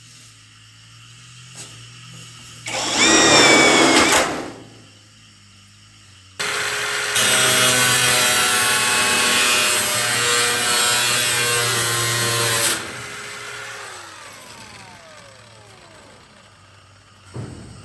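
A power tool runs in two bursts: a short one with a rising whine about three seconds in, then a longer steady run from about six seconds to near thirteen seconds, which winds down with a falling pitch when released.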